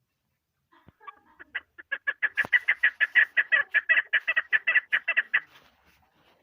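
Female chukar partridge calling: a rapid run of short, sharp chuck notes, about six a second, starting hesitantly about a second in, building up, and stopping near the end.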